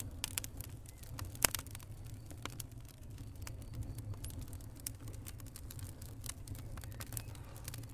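Wood fire in a fireplace crackling, with irregular sharp pops and snaps over a steady low rumble. One pop about a second and a half in is much louder than the rest.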